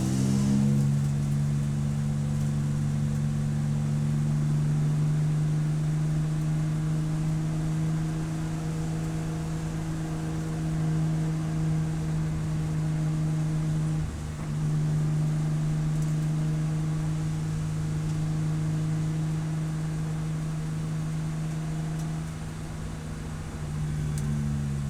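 Race car engine running at a nearly steady pitch, with a brief break about fourteen seconds in, then falling and rising again near the end.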